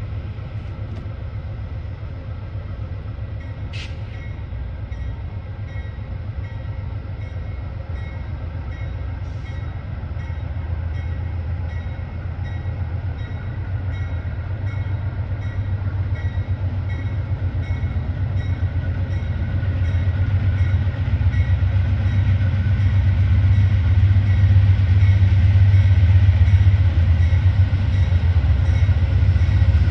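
Train approaching: a diesel locomotive's low rumble growing steadily louder, with a single sharp click about four seconds in.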